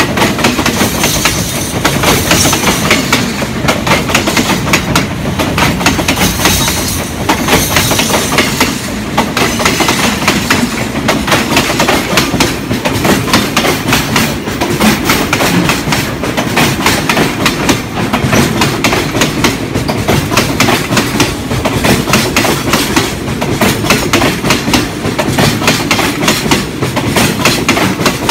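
Freight train of flat wagons and tank wagons rolling past, its wheels clicking rapidly and steadily over the rail joints with a continuous rumble.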